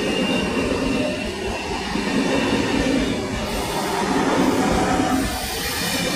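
Trenord double-deck electric train running past close by: a steady rumble of wheels on rail, with a faint thin high squeal from the wheels.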